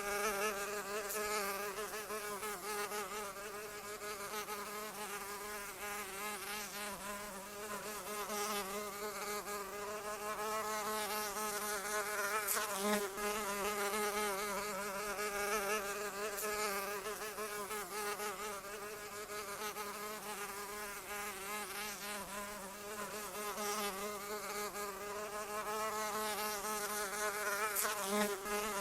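Flying insect buzzing in flight: a continuous wing-beat drone whose pitch wavers slightly as it moves. It swells briefly louder about halfway through and again near the end.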